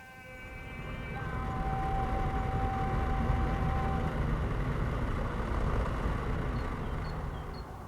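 A road vehicle passing by, its noise swelling over the first two seconds and fading away near the end, with a steady high tone for about three seconds in the first half.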